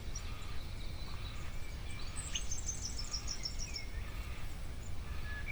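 Faint birdsong over a steady low background noise: about two seconds in, a bird gives a quick, high trill of chirping notes lasting just over a second, with a few scattered faint calls around it.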